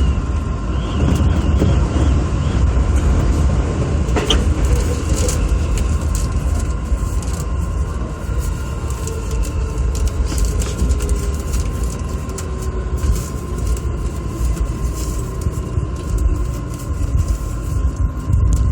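Electric commuter train running, heard from inside the front car: a steady low rumble of wheels on rail, with a whine that falls in pitch through the second half as the train slows for a station.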